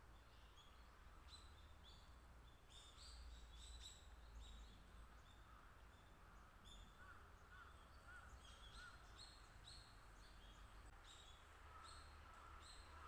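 Faint, short, high-pitched calls from small birds, scattered throughout with many overlapping, over a steady low background hum.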